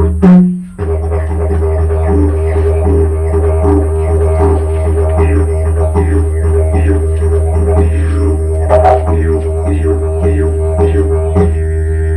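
Didgeridoo playing a steady low drone with rhythmic pulses pushed into the tone. The drone cuts out briefly about half a second in. The pulsing stops near the end, leaving the plain drone.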